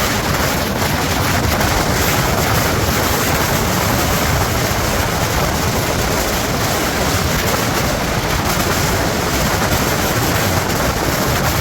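Steady rushing road and wind noise from a moving truck, with no distinct events.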